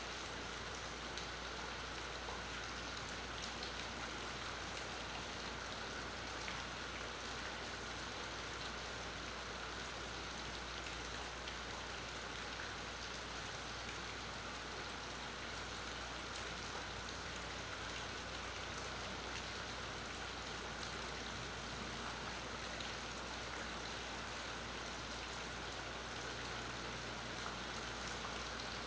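Steady rain falling: an even hiss with scattered faint drop ticks and a low steady hum underneath, picked up by a phone's built-in microphone.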